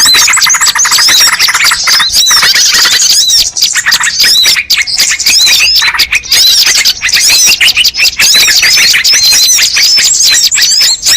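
Bird-lure recording of many small birds chirping and trilling at once: a loud, dense, unbroken mass of quick overlapping high calls, played to draw wild birds in.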